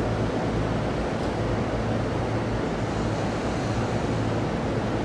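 Sotetsu electric train giving off a steady rumble with a low hum, holding an even level with no change in pitch.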